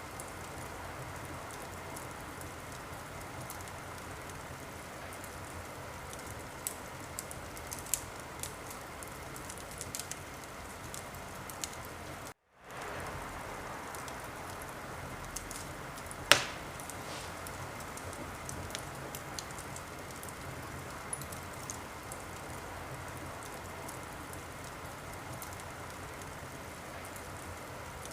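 Wood fire burning in a fireplace: a steady hiss with scattered small crackles and one loud pop a little past the middle. The sound cuts out completely for a split second just before the middle.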